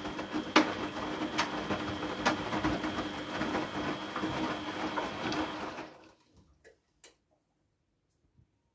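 Front-loading washing machine running on a wash cycle, its motor giving a steady hum with a light click a little under once a second as the drum turns, before it stops about six seconds in. The drum turns freely, with none of the strained noise it made before the repair.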